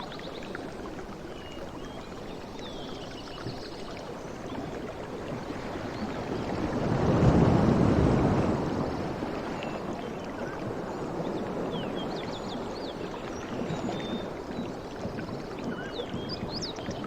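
Sea waves washing on a shore, one wave swelling to its loudest about seven seconds in and then drawing back into a steady wash.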